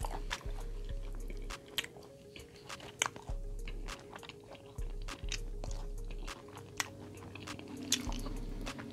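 Close-miked chewing and lip-smacking, many sharp wet clicks coming irregularly, over a soft background beat.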